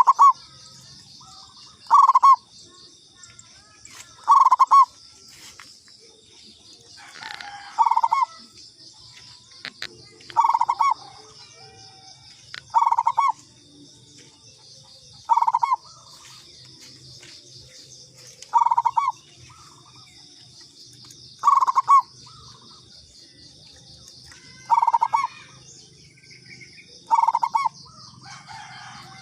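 Zebra dove (perkutut) song: short bursts of rapid cooing notes, repeated about every two to three seconds. A steady high-pitched chirring runs underneath.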